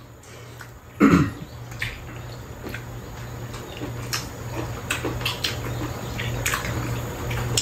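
Close-up mouth sounds of someone eating kimbap: scattered wet chewing and lip-smacking clicks, with a short throat sound about a second in, over a steady low hum.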